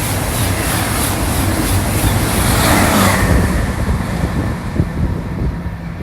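High-speed train passing at speed: a loud rushing noise whose pitch drops as it goes by, fading about halfway through. Wind buffeting the microphone is left behind.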